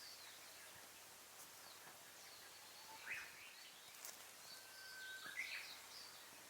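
Faint birds chirping in short, scattered calls over a quiet background hiss, with one brief whistled note about five seconds in and a single sharp click about four seconds in.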